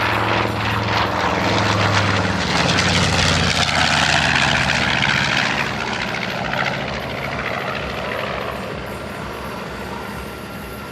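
North American B-25 Mitchell bomber making a low flyby, its two Wright R-2600 radial engines droning with propeller roar. The sound builds to its loudest a few seconds in and then fades away as the plane passes and moves off.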